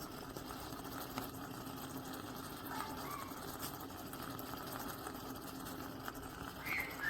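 GROSCHE Milano moka stovetop espresso maker heating on the stove: a steady hiss of the water boiling in its lower chamber.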